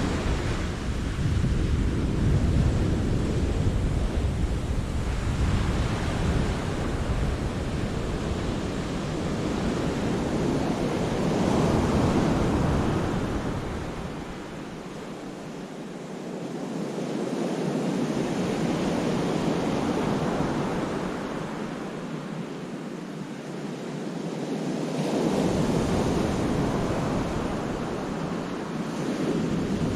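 Sea waves breaking and washing in a rocky cove, the surf swelling and ebbing every several seconds. Wind buffets the microphone with a deep rumble that cuts out twice, around the middle and in the second half.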